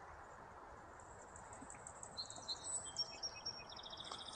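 Faint, high-pitched bird chirps over a low outdoor background hiss. The chirping starts about two seconds in as short repeated notes.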